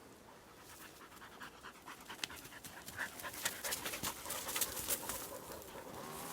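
Dogs panting as they run, with a busy, irregular crackle of paws on the forest floor that thickens from about two seconds in.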